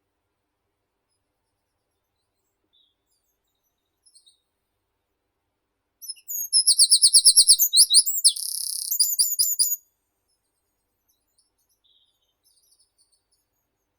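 A meadow songbird sings one loud, high phrase about six seconds in, lasting about four seconds. It is a quick run of repeated notes, then a buzzy stretch, then a few separate notes. Faint distant chirps come before and after.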